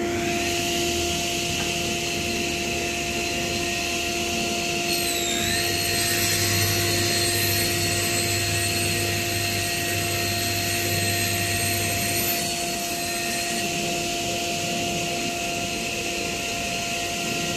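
A circular saw's diamond-tipped blade spins at speed with a steady whine, cutting a veneered panel. About five seconds in the pitch dips briefly as the blade takes load, and a lower hum lasts until about twelve seconds in.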